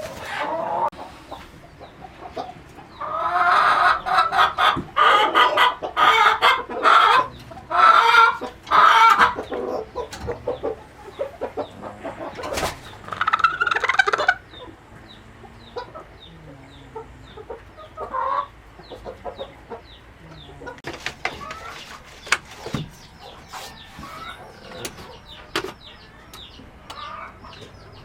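Chickens clucking, with a loud run of short, choppy cackling calls from about three to nine seconds in and another loud burst a little past halfway, then quieter clucking.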